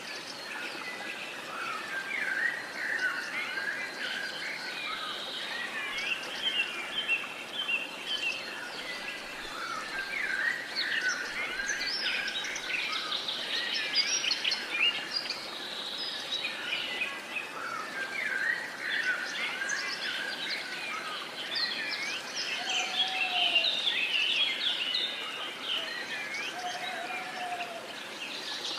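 Many small birds chirping and singing at once, a dense chorus of short overlapping calls and trills over a steady background hiss, with a couple of brief lower calls near the end.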